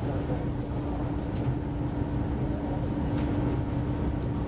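Passenger train running at speed, heard from inside the carriage: a steady low rumble of wheels on rail with a constant hum, and a few faint clicks.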